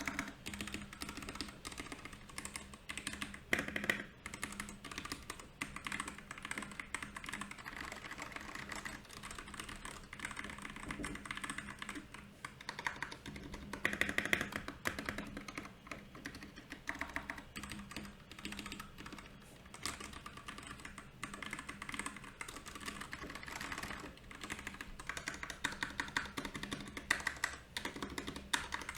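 Continuous typing on a Royal Kludge RK68 mechanical keyboard: a dense, irregular run of keystrokes, with busier flurries a few times.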